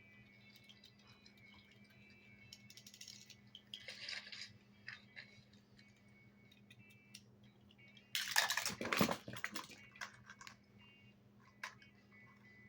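Toy construction vehicles being handled and knocked about: scattered small clicks and rattles, with a louder clatter and rustle about eight seconds in.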